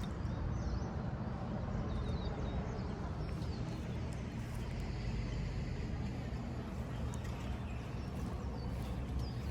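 Steady low rumble of wind on the microphone, with faint short bird chirps now and then.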